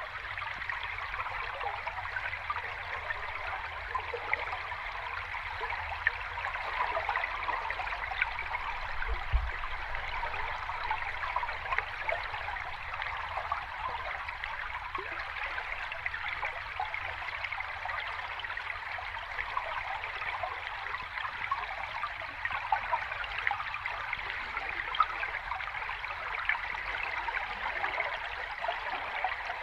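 Gentle sea waves washing on a shore: a steady fizzing wash that swells and eases slowly, with no breaking crashes.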